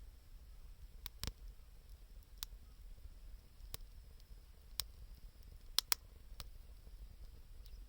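Wood fire crackling: sharp, irregular pops about once a second, the loudest pair close together near six seconds in, over a faint low rumble.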